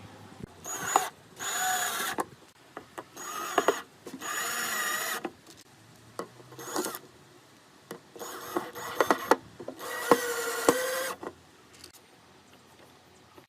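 Power drill run in repeated short trigger bursts, each a second or less, its motor whine wavering in pitch, with sharp knocks of wood between the bursts. It goes quieter near the end.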